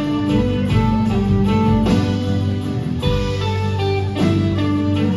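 Live folk-rock band playing an instrumental break between sung verses, guitar to the fore over bass and drums.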